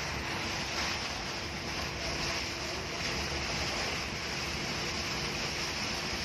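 Steady rushing noise of a car driving on a wet road in the rain, tyre and rain noise together, with a faint steady hum underneath.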